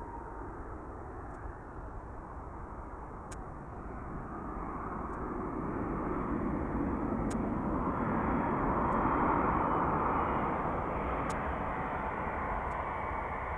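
DHL Boeing 757-200F's twin jet engines, the noise building for several seconds to a peak about two-thirds of the way through, then slowly easing.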